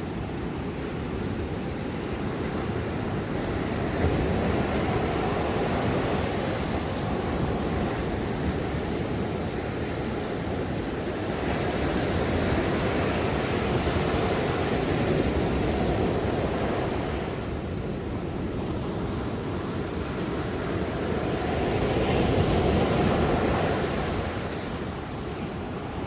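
Ocean waves breaking and washing on a shore in a steady rushing wash, swelling and easing in slow surges every several seconds.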